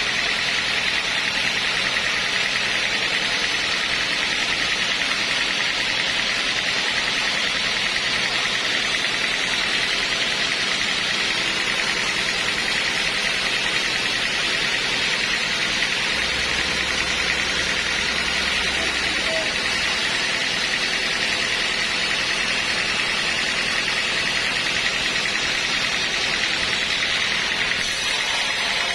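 Sawmill machinery running steadily, a continuous even mechanical noise with no break, slightly changing in tone near the end.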